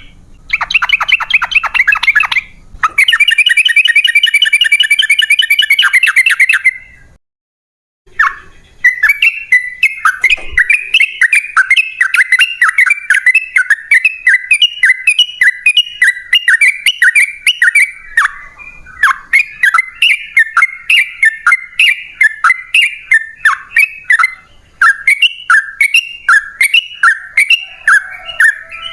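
Yellow-vented bulbul (trucukan) singing its long rapid song. A fast chattering run is followed by a dense trill. After a break of about a second comes a long series of quick repeated warbled notes, several a second, with short pauses.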